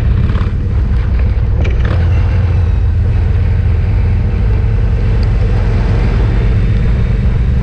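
Motorcycle engines running steadily in a loud, low rumble.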